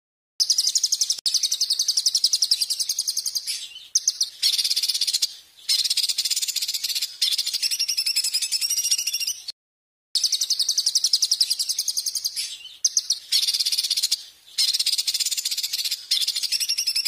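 A small songbird singing rapid, high-pitched rattling trills in long phrases of a few seconds each, with short breaks between them and one abrupt cut-off about halfway through.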